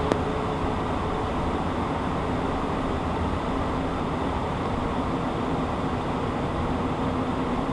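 Steady cockpit noise of a Beechcraft Premier I twin-turbofan business jet in flight: a continuous rush of air with a faint steady engine hum underneath.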